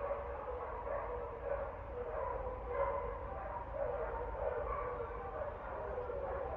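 Dogs barking over and over without a break, the barks short and fairly even in loudness, over a low background rumble.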